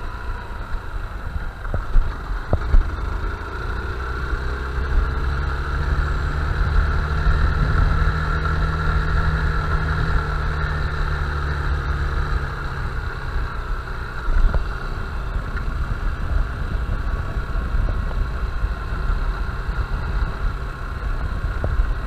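Honda Bros 160 single-cylinder motorcycle engine running steadily while riding, its pitch rising slightly for several seconds and then easing back. A few short knocks are heard near the start and about two-thirds of the way through.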